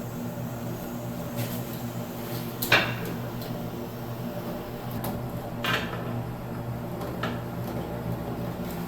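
A few short knocks and clanks of hand work under a bathroom sink as the water supply lines are disconnected, the loudest about three seconds in. A steady low hum runs underneath.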